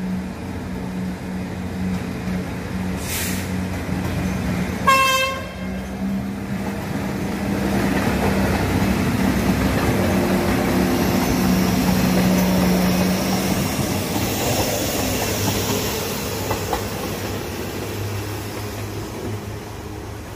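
Diesel passenger train passing: the engine hums steadily, the horn gives one short toot about five seconds in, then the rumble of the coaches going by swells and slowly fades.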